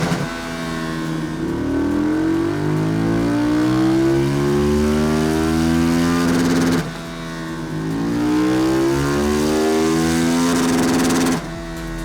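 KTM 1290 Super Duke GT's 1301 cc V-twin running through an Arrow aftermarket exhaust, pulling hard as the revs climb steadily, with a sudden drop in revs about seven seconds in and another near the end, as at an upshift, before climbing again.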